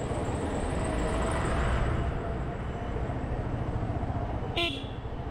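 Motorcycle riding along a street: steady low engine rumble mixed with wind and road noise, with one brief sharp high-pitched sound about four and a half seconds in.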